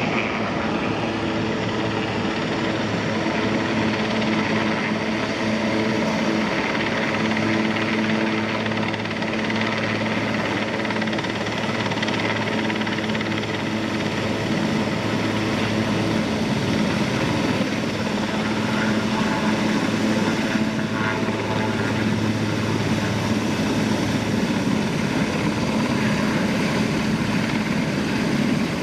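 Helicopter running close by: a steady, loud rotor-and-turbine drone with an even low hum under it.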